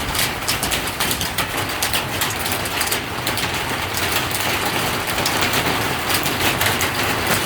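Steady rain falling: an even hiss with a dense, irregular patter of drops striking close by.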